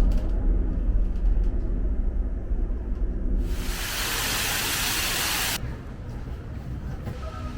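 Low rumble of street traffic, then a loud hiss about halfway through that lasts about two seconds and cuts in and out abruptly.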